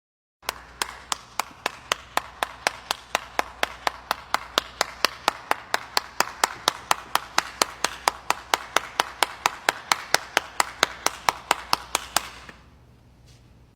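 Hands clapping in a steady, even rhythm of about four to five claps a second, stopping shortly before the end.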